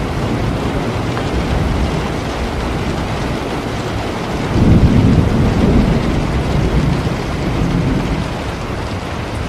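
Steady rain with a low rumble of thunder that swells about four and a half seconds in and slowly fades over the next few seconds.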